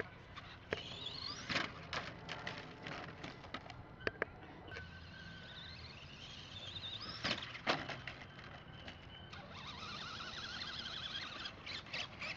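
Nitro Traxxas Rustler RC car's small glow-fuel engine revving as it drives, its whine rising in pitch on each throttle burst and warbling near the end. A few sharp knocks come through, the loudest about two thirds of the way in.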